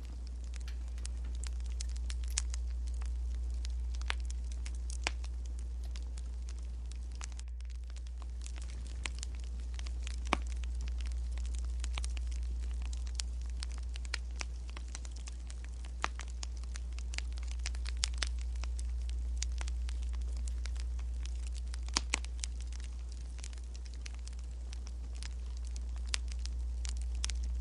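Wood fire crackling: irregular sharp pops and snaps over a low, steady rumble that slowly swells and fades.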